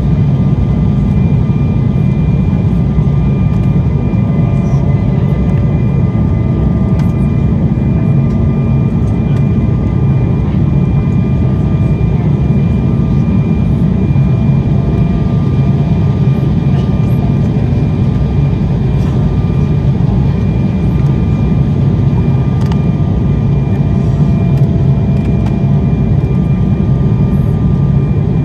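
Steady, loud in-flight noise of an Embraer ERJ-190 airliner heard from the cabin: a deep, even rumble of airflow and engines with steady whining tones from its General Electric CF34 turbofans.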